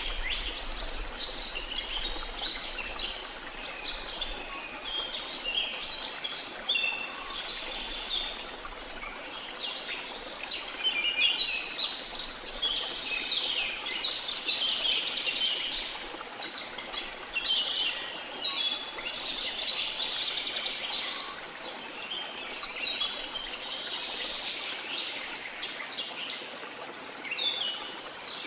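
A dense chorus of many birds chirping and trilling without pause, over a steady rush of falling water.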